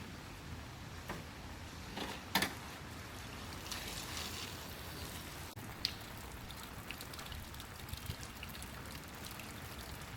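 Steady hiss of heavy rain and running water, with a few sharp taps, the loudest about two seconds in.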